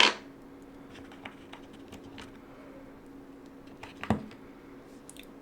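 Light taps and clicks of small laser-cut wooden pieces being handled and pressed together while gluing, with one sharper knock about four seconds in. A steady low hum runs underneath.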